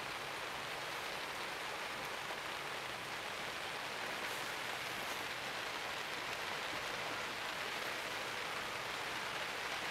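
Steady rain hissing on forest foliage and ground.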